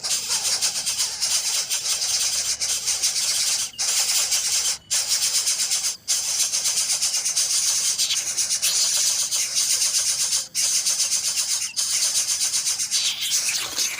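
Bird nestlings giving a continuous raspy, hissing begging chorus, with a few brief pauses.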